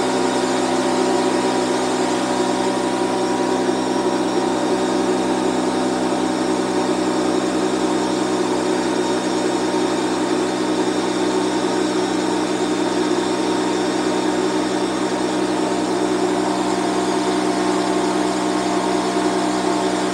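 6-gallon Bostitch air compressor's motor and pump running steadily, airing up the tank as it builds pressure after a repair.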